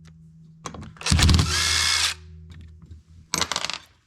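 A handheld power driver runs for about a second, a short burst that backs out the chainsaw's cylinder fasteners. A few sharp clicks and rattles of small metal parts follow near the end.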